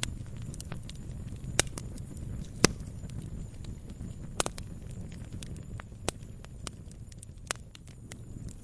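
Campfire burning, with irregular crackles and sharp pops over a low, steady rumble of flames. The loudest pop comes about two and a half seconds in.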